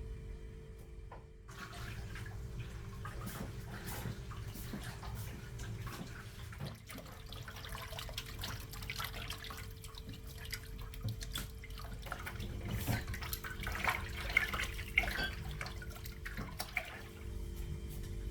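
Water running and splashing, with scattered small clicks and knocks that grow busier near the end.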